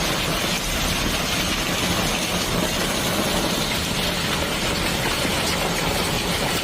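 Heavy rainstorm downpour: a steady, dense rushing noise at an even level throughout.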